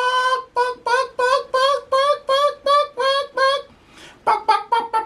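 Electronic animal-sound toy playing a sung jingle: a held note that ends just after the start, then a run of short, even notes at about three a second. After a brief pause near the end, a few more notes follow.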